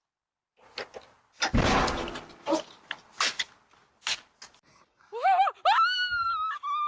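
A sudden deep thump-like burst about a second and a half in, with a few sharp knocks around it, then a person's high-pitched scream that rises and is held from about five seconds in.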